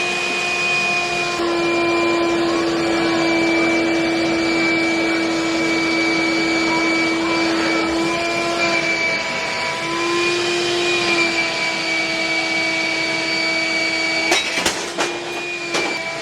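Vacuum cleaner motor running with a steady whine over a rushing hiss; the pitch sags and recovers briefly about nine seconds in. A few sharp knocks near the end.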